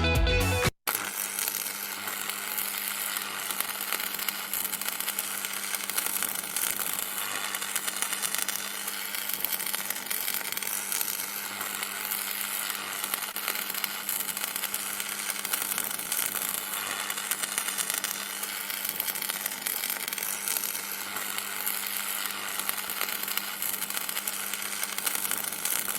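Sound-effect recording of electricity: a steady electrical buzz and hiss with a faint low hum underneath.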